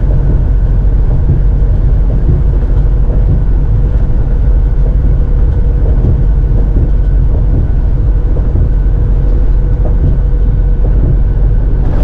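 Steady low engine and road drone of a truck on the move, unbroken, with a constant hum over the rumble.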